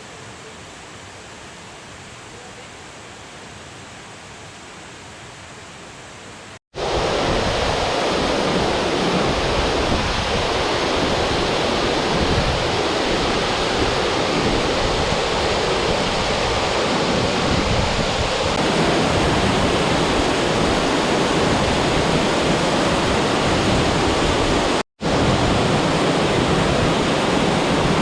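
Waterfall rushing: a softer steady rush of water for the first few seconds, then after a cut a loud, steady roar of falling water close by, broken once more by a short cut near the end.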